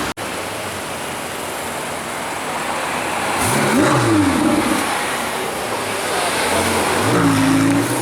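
Ferrari 488 GTB's twin-turbo V8 revving in street traffic: its pitch rises and falls about four seconds in, and it builds again near the end.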